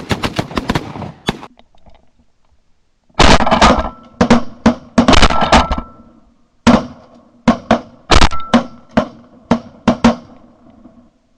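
Shotgun volley from several waterfowl hunters firing at geese: a quick string of overlapping shots in the first second or so, then, after a pause of about two seconds, a long irregular run of shots over the next seven seconds.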